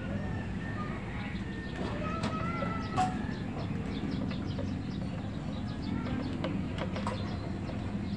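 Birds chirping and calling over a steady low hum, with a sharp click about three seconds in.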